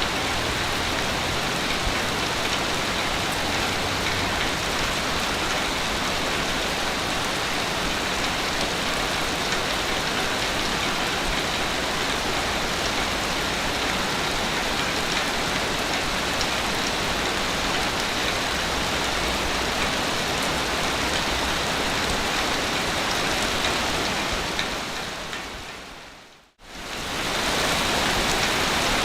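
Steady, even hiss of surf washing on a beach, without distinct swells. Near the end it fades out to a moment of silence and fades back in.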